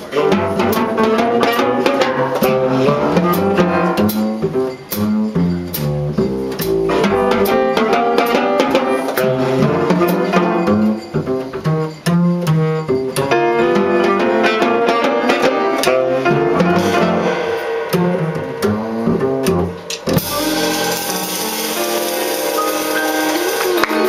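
Live jazz quartet of saxophone, piano, double bass and drum kit playing, with frequent drum and cymbal strikes. The music stops about 20 seconds in and audience applause follows.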